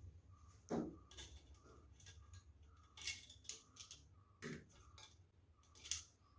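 Scattered light clicks and knocks as the front grill of a small exhaust fan is handled and lifted off its frame.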